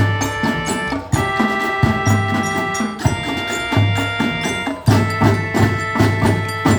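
Marching band playing: held chords that change about every second, over a busy drumline with repeated deep bass-drum hits.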